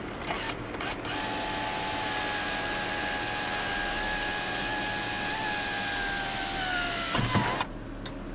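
Power sunroof motor of a 2008 Hummer H2 whining steadily as the sunroof slides, with a slight drop in pitch just before it stops about seven seconds in, followed by a couple of clicks.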